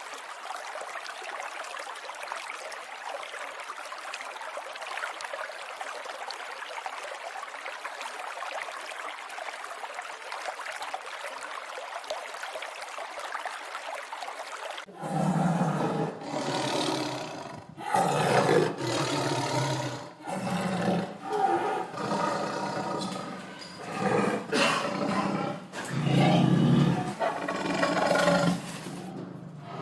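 A steady rushing hiss like running water, then, about halfway through, a large animal roaring loudly in a series of calls about a second long with short gaps between them.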